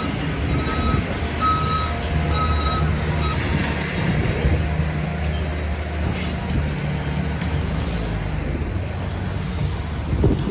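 A heavy vehicle's reversing alarm beeping about once a second, stopping about three seconds in, over the steady low running of its engine.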